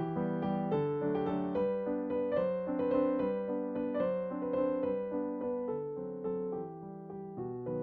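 Background piano music: gentle, slow notes played several at a time.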